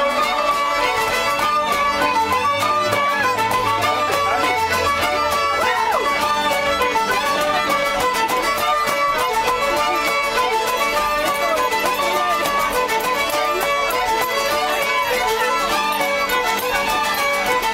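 Live folk music: a fiddle playing a fast, repeating tune over a steady rhythmic accompaniment.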